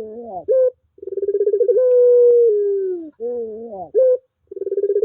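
Puter pelung dove cooing: a short gliding call, then one long coo that opens with a rapid stutter, holds a low steady note and falls in pitch at its end, followed by another short call and the stuttering start of the next coo near the end.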